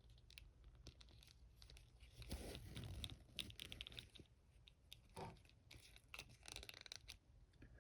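Faint clicks and light crinkling from a Mafex Thor action figure being handled and posed, with a denser crinkly stretch about two and a half seconds in.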